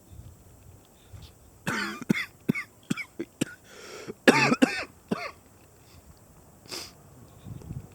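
A man coughing and clearing his throat in two harsh bouts, about two seconds in and again about four and a half seconds in, with short clicks between them.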